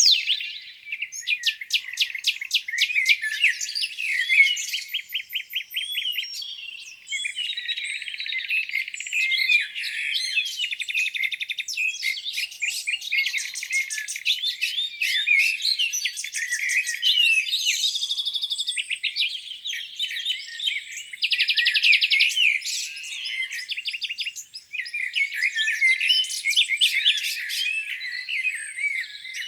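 Several songbirds singing at once in a spring chorus: overlapping high chirps and fast, rattling trills, with no pause.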